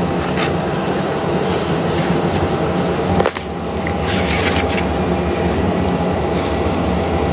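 Layers of a giant hornet's paper nest comb being pulled apart by hand: dense rubbing and crackling of the papery comb, over a steady low hum, with a brief break about three seconds in.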